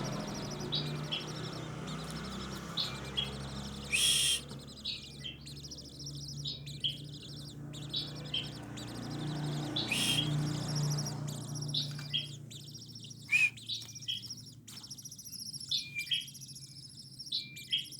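Coppersmith barbet chick begging while being fed: short high chirps repeated over and over, with two louder, harsher calls about four and ten seconds in. A low steady hum runs underneath and stops about twelve seconds in.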